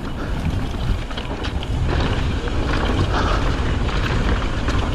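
Wind rushing over the microphone and mountain bike tyres rolling over dry, loose dirt during a descent, with scattered small clicks and rattles from gravel and the bike. The noise grows a little louder about two seconds in.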